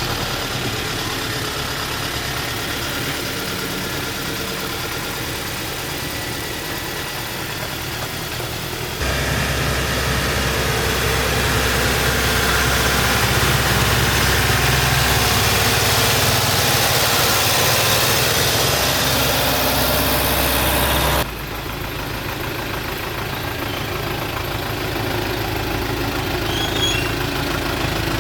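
Old truck engine running steadily at idle, with a low steady drone. Its level jumps up abruptly about a third of the way in and drops back just as suddenly about two thirds through.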